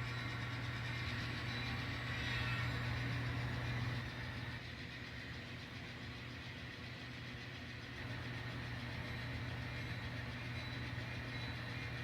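N scale model diesel locomotive running during yard switching: a steady engine-like hum whose loudness steps up about two seconds in, drops back about four seconds in, and rises again about eight seconds in.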